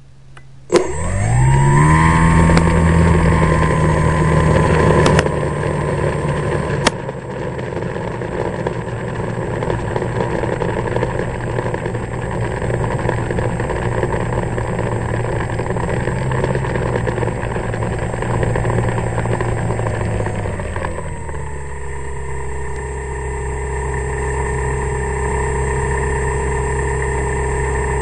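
Electric motor and propeller of an ST Models Cessna 182 RC plane, heard from on board: it spins up quickly to a high, steady whine, then is throttled back to a lower steady pitch about three-quarters of the way through.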